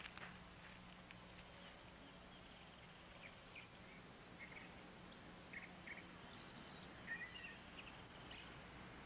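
Faint, scattered bird chirps, a few short calls spread over several seconds, over a quiet background with a steady low hum.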